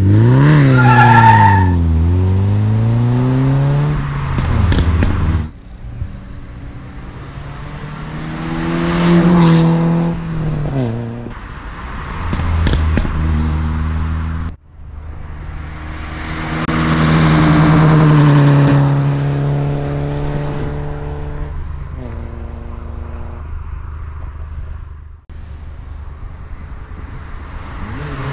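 VW Golf 4 2.0 four-cylinder engine and exhaust revving and accelerating hard, the pitch climbing and dropping through the gears, in several separate takes that cut off abruptly.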